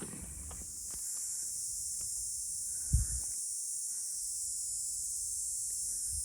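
A steady high hiss of the outdoor background, with a single heavy footstep or thump on the rocky trail about three seconds in.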